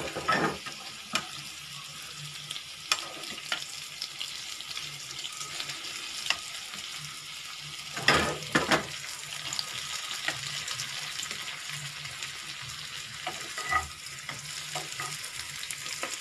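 Aluvadi (colocasia-leaf and moong dal fritters) shallow-frying in oil in a nonstick pan, a steady sizzle as they crisp. A steel spatula scrapes and knocks against the pan several times while the pieces are turned, loudest about eight seconds in.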